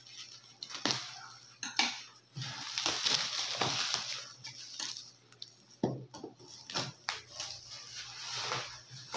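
Bubble wrap being peeled and pulled off a cardboard box: plastic rustling and crackling, with a few sharp clicks, loudest about midway.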